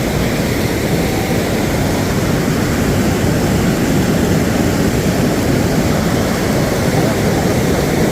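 Loud, steady rush of a flash-flood torrent after heavy rain.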